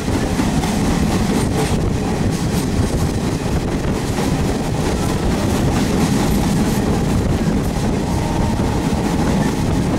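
Passenger train coach running steadily along the track, heard from its open door: a continuous rumble and rattle of wheels on rails with wind noise, and a few faint knocks over the rail joints.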